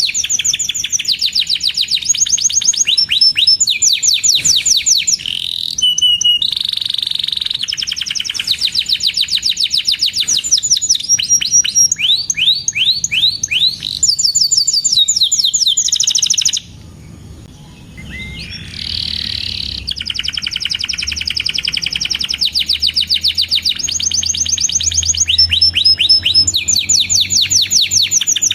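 Domestic canary singing continuously in long, rapid trills, each a quick run of repeated chirps, switching to a new trill every second or two. There is a brief pause about two-thirds of the way through.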